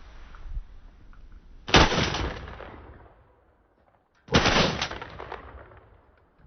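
Two volleys of shotgun fire about two and a half seconds apart, each several shots fired in quick succession by more than one gun, fading away after each burst.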